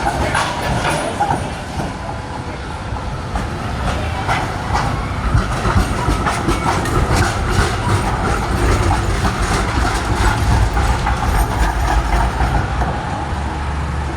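Z3-class tram running on its rails: a steady low rumble with a run of sharp clicks and knocks from the wheels on the track, thickest through the middle.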